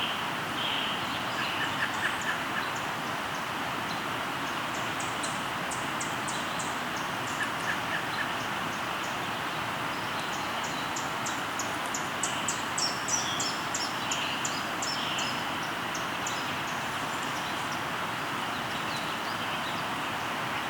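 River water flowing steadily, with a songbird singing over it: two runs of rapid, high repeated notes, one about four seconds in and a longer one from about eleven seconds, plus a few short chirps.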